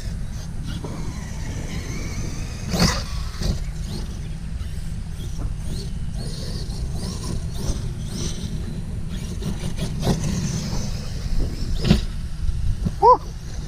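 Electric Traxxas RC cars with brushless motors running on a track: motor whine rising and falling as they speed up and slow, over a steady low rumble, with a few sharp knocks. A short chirp comes near the end.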